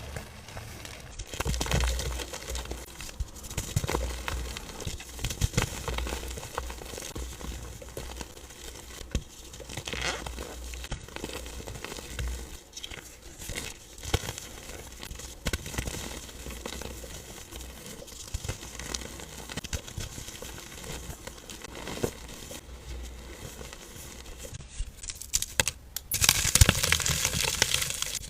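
A dry, dusty powder mass being crushed and crumbled, giving an irregular stream of soft crunches and crackles. Near the end the crunching turns louder and denser.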